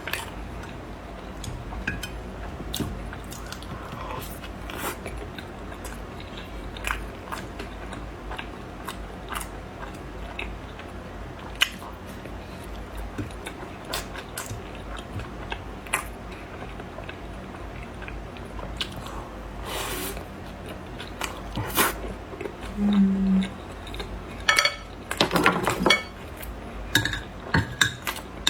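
Close-miked chewing and biting of food, with scattered clicks and light knocks of utensils against dishes; the clatter grows louder near the end.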